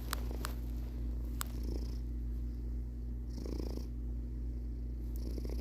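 Domestic cat purring steadily close up, a little louder for a moment about three and a half seconds in.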